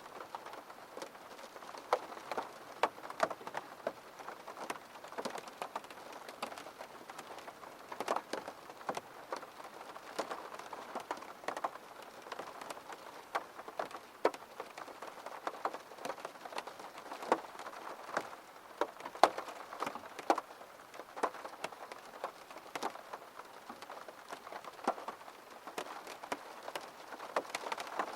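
Steady rain falling, with many separate drops tapping sharply on a surface close by.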